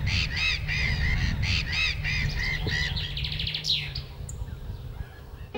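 Birds calling over and over, a few calls a second, then a quick run of rapid notes and one falling call a little past halfway before the calls die away, over a steady low rumble.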